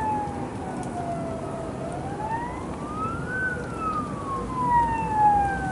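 A siren wailing, its pitch sliding slowly down, up again about two seconds in, then down again in long sweeps of a few seconds each, over a steady low background noise.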